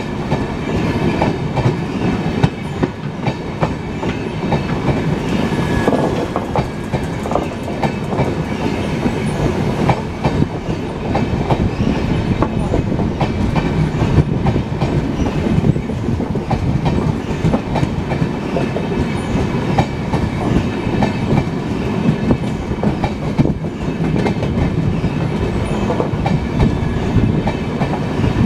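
Passenger train coaches rolling past close by: a steady loud rumble with continual clicking and clattering of the wheels on the rails.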